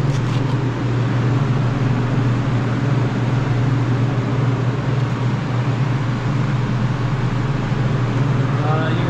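Refrigeration unit of a produce cooler running: a steady low hum with an even rush of fan noise over it.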